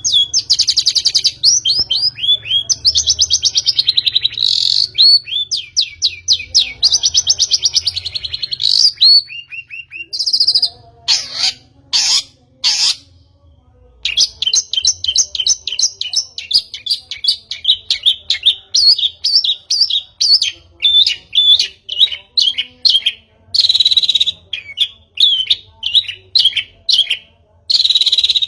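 Long-tailed shrike (pentet) singing a fast, chattering song of rapid trills and repeated up-slurred chirps. Near the middle it breaks into a few harsh notes and a brief pause, then goes back to quick chirping.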